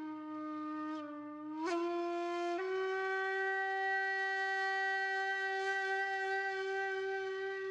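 Background music: a single wind instrument playing long held notes, bending up in pitch twice in the first few seconds and then holding one long steady note, over a faint low pulsing drone.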